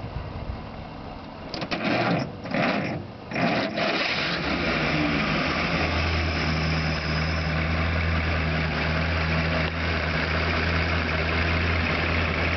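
1929 Stutz Model M's straight-eight ('Vertical Eight') engine starting: a couple of seconds of broken cranking and firing, catching about three and a half seconds in, then settling into a steady idle.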